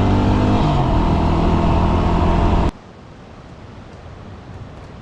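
Dual-sport motorcycle engine running steadily under way, loud, with a slight dip in pitch about half a second in. It cuts off abruptly a little past halfway, leaving faint wind noise.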